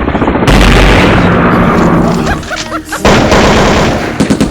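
Gunfire and explosions: a loud blast about half a second in with a long rumbling decay, then a second blast about three seconds in.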